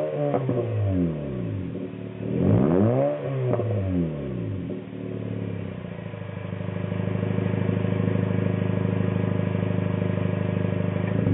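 Honda CR-Z's 1.5-litre four-cylinder engine through a 3Q Cars Morimori-kan sports muffler: a quick rev blip right at the start and another about two and a half seconds in, then the revs held steady at a raised speed from about the middle on, cutting off at the very end.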